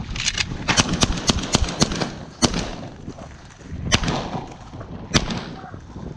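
Shotguns firing at a flock of birds: a rapid volley of shots from several guns in the first two seconds, then single shots spaced out, over wind noise on the microphone.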